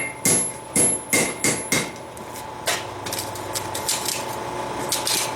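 Hand hammer striking steel on an anvil: about six ringing blows in quick succession, roughly three a second, then a few lighter, scattered strikes.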